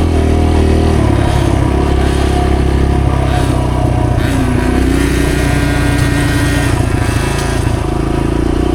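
Dirt bike engine running steadily at trail-riding speed. A higher, thinner engine whine joins for about two seconds past the middle.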